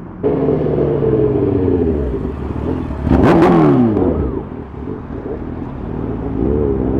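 Sport motorcycle engines revving and accelerating, with a louder burst about three seconds in as a bike goes by, its pitch sweeping up and then falling away, with a few sharp cracks from the exhaust.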